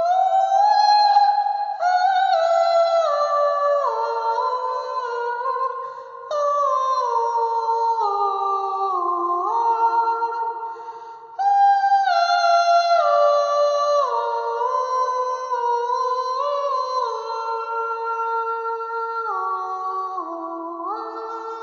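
Wordless vocals humming in sustained harmony, several voices held together and moving note by note in steps. Long phrases fade and fresh ones begin about six and eleven seconds in.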